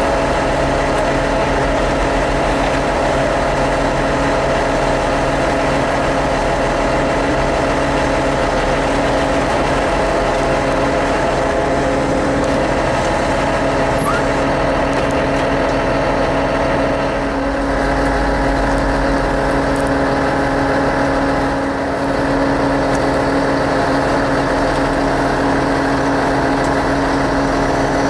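Bobcat E80 excavator's diesel engine running steadily under work, a loud, even engine drone that barely changes, easing slightly twice in the second half.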